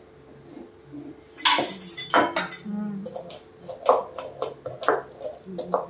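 A crisp deep-fried samosa being bitten and chewed close to the microphone. A few sharp crunches come about one and a half to two and a half seconds in, followed by a run of shorter chewing crunches.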